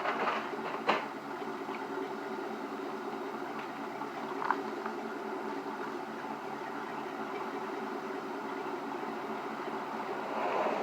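Pickup truck engine idling steadily, with a couple of sharp knocks in the first second and one more about four and a half seconds in.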